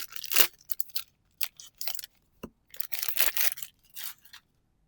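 Foil trading-card booster pack wrapper crinkling and rustling as it is handled, in a string of short bursts with a longer rustle about three seconds in.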